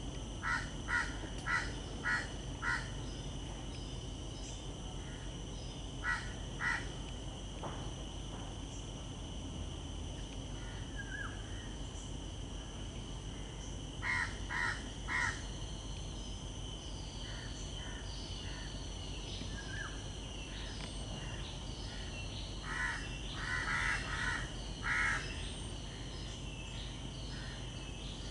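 A bird calling in short runs of two to five evenly spaced notes, a little under two a second, repeated several times, over a steady high-pitched insect drone.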